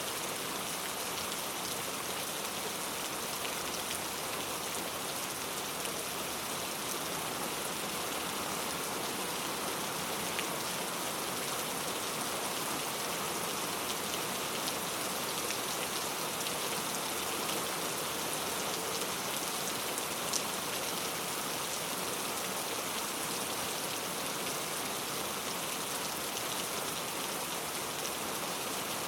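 Very heavy rain falling steadily, a dense even hiss of drops pattering on a surface, with a slightly sharper drop tick about two-thirds of the way through.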